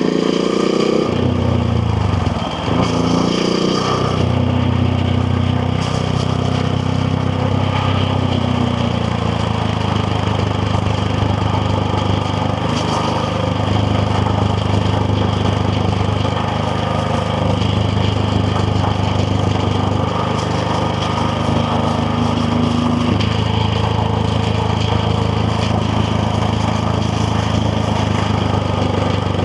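KTM Duke 690R's single-cylinder engine revving higher at first, falling off with a brief dip about two to three seconds in, then running at steady low revs, with wind noise over the microphone.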